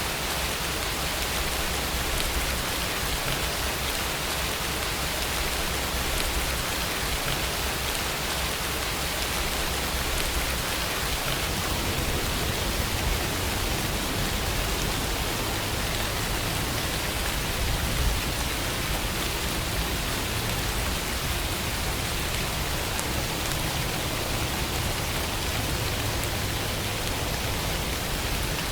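Steady rainfall: an even hiss of rain falling on surfaces.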